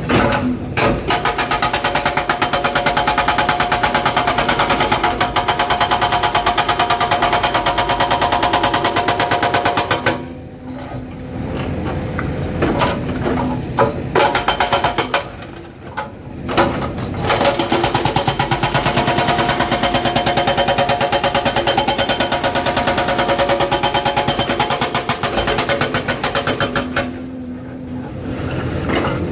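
Excavator-mounted hydraulic breaker hammering rock with rapid, even blows, in two long runs with a short break about ten seconds in and a lull near the end.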